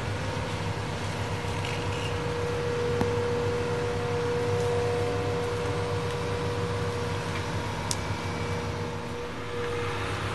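Excavator's diesel engine running steadily, with a steady whine held over it.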